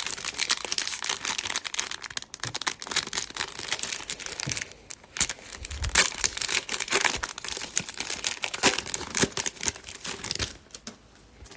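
A trading card pack's wrapper being torn open and crinkled: a dense, crackling rustle that dies down near the end.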